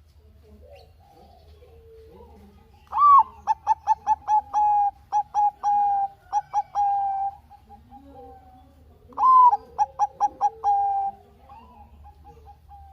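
Zebra dove (perkutut, Bangkok type) singing: two song phrases, one about three seconds in and a shorter one about nine seconds in, each opening with a rising note and running into a quick string of short coos that ends in longer drawn-out notes. Fainter, lower calls are heard between the phrases.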